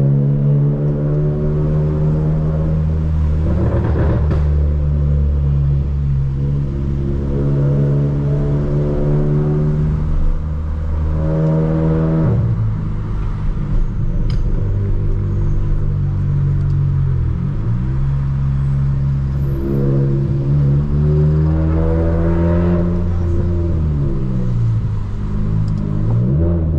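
Volkswagen Polo GTS's turbocharged four-cylinder, stage 2 tuned with a sport exhaust, pulling through the gears and easing off. Its note climbs and falls several times.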